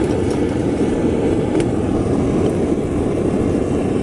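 Blacksmith's forge running, a loud steady rushing noise from its burner or air blast as it heats up. A single light metallic click about one and a half seconds in.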